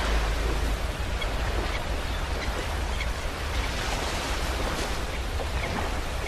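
Ocean waves breaking and washing on a beach, a continuous surf wash with a deep rumble underneath and gentle swells in loudness.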